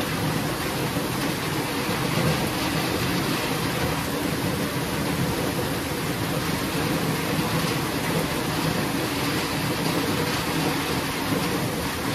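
Steady heavy rainfall, an even hiss of rain with a low rumble underneath.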